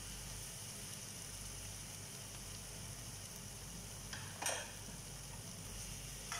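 Sauce-coated chicken wings sizzling faintly in a frying pan, with one brief scrape of a utensil against the pan about four seconds in.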